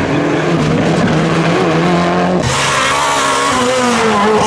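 Rally car engine revving hard, its pitch climbing and dropping with gear changes. About two and a half seconds in the sound changes abruptly to a brighter, nearer engine note.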